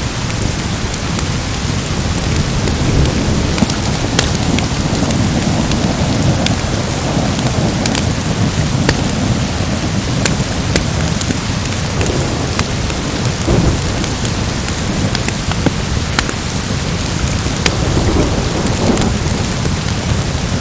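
Steady heavy rain with low rolling thunder that swells several times, near the start, about two thirds of the way in, and near the end. Scattered sharp ticks run through it.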